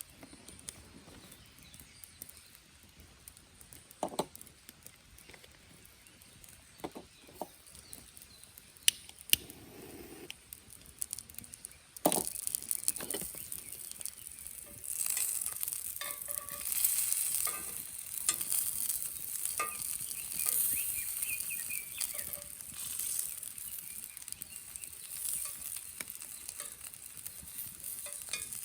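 A few scattered knocks and clinks of cast iron being handled, then, about twelve seconds in, meat hitting a hot Nambu cast-iron grill pan. It starts sizzling suddenly and keeps up a steady, crackling sizzle.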